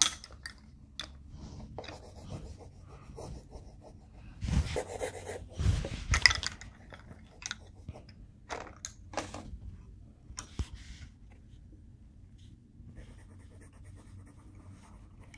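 Coloring on paper: irregular scratchy strokes with scattered clicks and taps, and two louder rustling bursts about halfway through.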